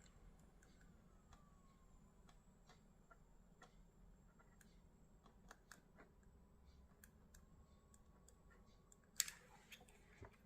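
Near silence: room tone with faint scattered ticks and one sharp click about nine seconds in.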